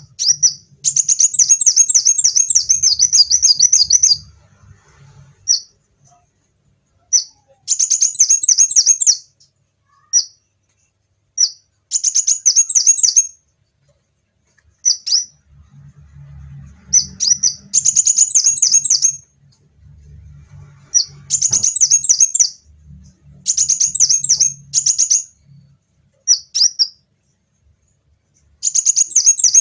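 Kolibri wulung sunbird singing: high, fast chattering trills of one to three seconds, repeated every few seconds, with single sharp notes in the gaps.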